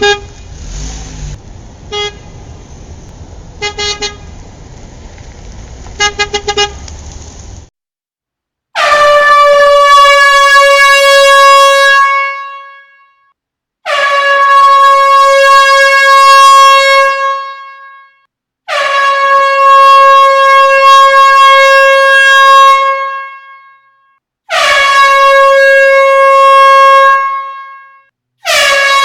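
Vehicle horn sound effect: five long, loud blasts of three to four seconds each, every blast on one steady pitch. Before them comes a noisy stretch with short beeps about every two seconds.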